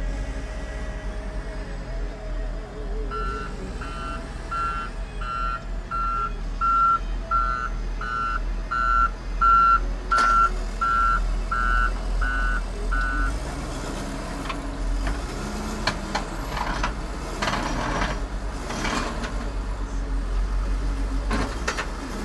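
A heavy machine's reversing alarm beeping about fifteen times, roughly one and a half beeps a second, from about three seconds in until about thirteen seconds, over a diesel engine running throughout. After the beeping stops, the engine and machine noise comes in louder, irregular surges.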